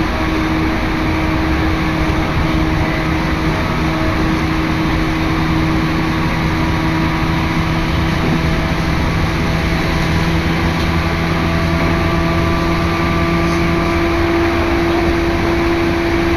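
Steady running noise inside a moving electric commuter train's carriage: wheels rumbling on the rails under a constant motor hum, with one low hum dropping out near the end.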